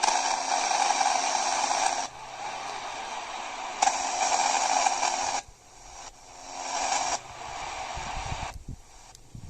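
Radio receiver giving out loud hiss and static in abrupt bursts: about two seconds, then another burst of about a second and a half, then a shorter one. After that it drops to a low hiss, with a few dull knocks near the end.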